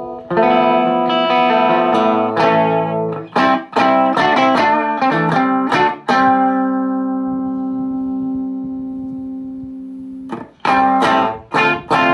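Les Paul Custom electric guitar played through a VHT Deliverance D60 valve amp, miked at a 4x12 cabinet. It plays a quick run of struck chords and notes, then lets one chord ring out and fade for about four seconds, before a few short chord stabs near the end.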